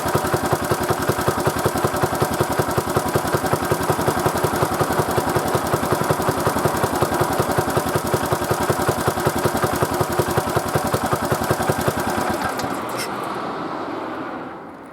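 Old Kubota LK50 air-cooled general-purpose engine running with an even, rapid exhaust beat, then stopping about twelve seconds in. A couple of clicks follow and the sound dies away.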